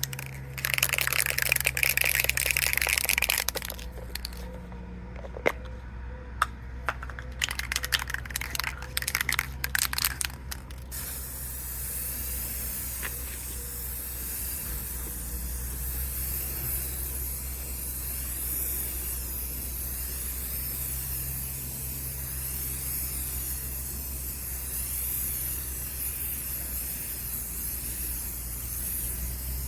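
Aerosol can of truck bedliner spraying onto a car bumper. It goes in loud hissing bursts with sharp clicks through the first ten seconds or so, then settles into a long, steady hiss.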